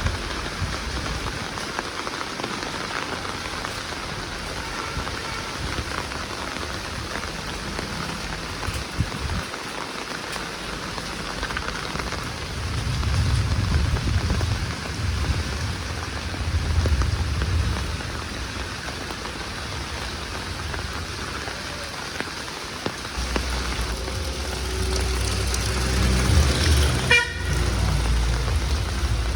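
Steady heavy rain pattering and splashing. A low rumble swells twice, and a brief horn toot sounds near the end.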